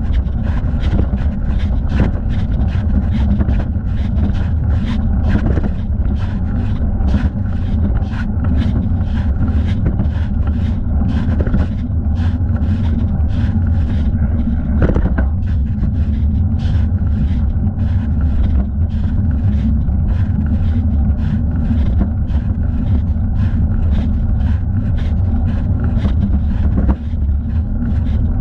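Riding noise picked up by a camera on a moving bicycle: a steady low rumble of wind buffeting and tyres rolling on pavement, with frequent small clicks and rattles throughout.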